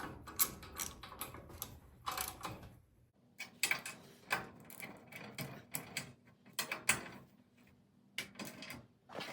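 Irregular metal clicks and clinks of tools and hardware being handled on a garage door torsion spring assembly.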